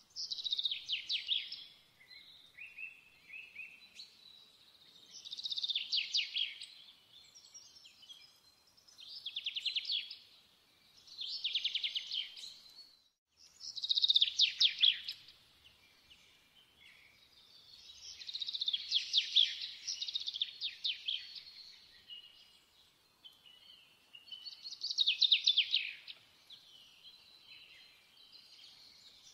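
Birdsong: short, high, rapidly trilled phrases repeated every few seconds, with quiet gaps between them.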